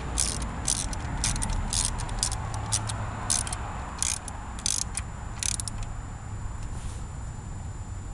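Hand ratchet wrench tightening a 13 mm bolt, clicking in short strokes about twice a second; the clicking stops about five and a half seconds in, leaving a steady low hum.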